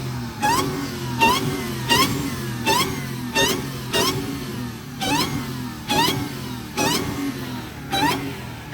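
Car engine revved hard in quick repeated blips, about eleven in the span, each one starting with a sharp crack as the pitch jumps up, then falling back before the next.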